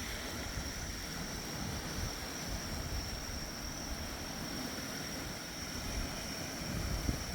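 Steady wash of sea waves and wind rumbling low, with a continuous high, even trill of grass insects over it.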